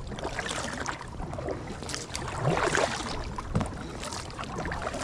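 Kayak paddles dipping and splashing in the water at irregular strokes.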